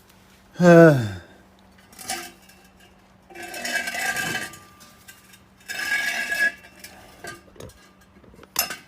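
Steel motorcycle exhaust pipe sections being handled, scraping and clinking against each other in two stretches, about four and six seconds in. The loudest sound is a brief one falling in pitch, about a second in.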